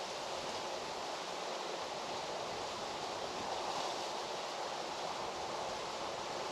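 A steady rushing outdoor noise, even and unbroken, with no distinct events.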